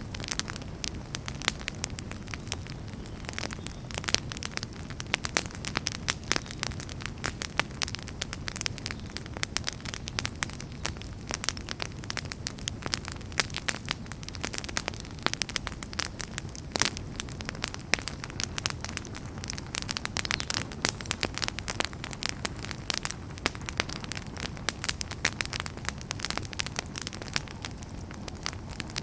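Campfire of burning firewood crackling continuously: dense, irregular pops and snaps over a low steady rumble of the flames.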